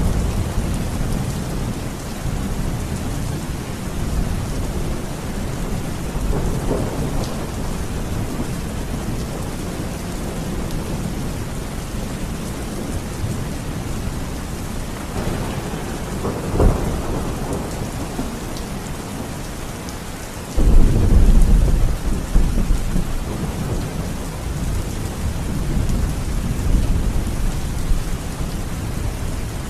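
Steady rain with rolling thunder. A sharp crack comes a little past the middle, then a sudden loud, deep clap of thunder that rumbles on for several seconds.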